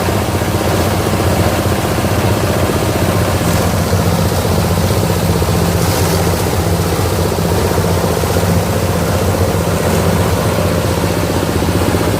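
26 hp diesel engine running steadily under power, driving a multipurpose chopper-grinder. It makes a loud, even low engine note with fast pulsing and a noisy top.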